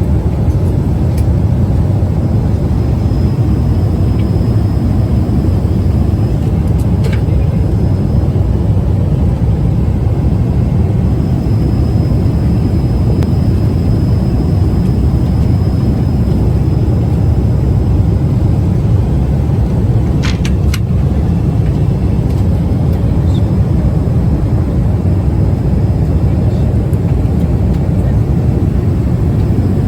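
Steady low rumble of jet airliner cabin noise in flight, engine and airflow noise, with a few brief faint clicks about a quarter and two-thirds of the way through.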